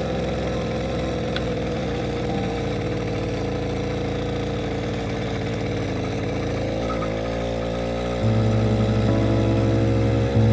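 Motorcycle engine running steadily. About eight seconds in, louder music with held notes comes in over it.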